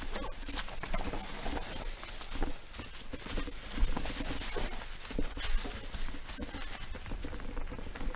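Mountain bike riding down a rough, rocky trail: tyres rattling over stones and the bike clattering in a rapid, uneven run of knocks, with a sharper knock about four seconds in.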